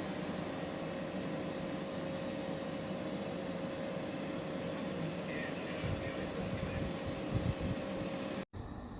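Steady engine drone with a constant hum, broken off by an abrupt cut shortly before the end.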